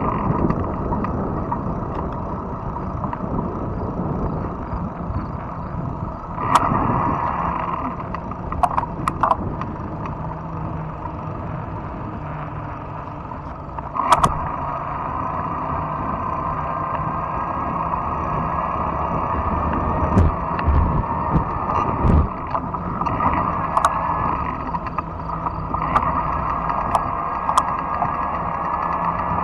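Fat-tire electric bike riding along a trail: a steady hum of tyres and drive with rumble, broken by a few sharp clicks and rattles, more of them near the end.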